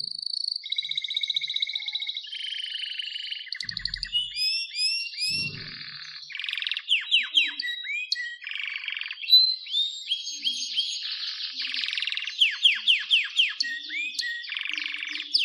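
Canary singing a continuous song of rapid high trills, rolling buzzy passages and runs of quick downward-sweeping notes, switching to a new phrase every second or so.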